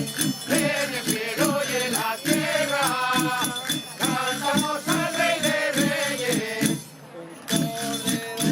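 A group of voices singing a Christmas carol in the Spanish ronda style over a steady beat of shaken and struck percussion, with a short break about seven seconds in.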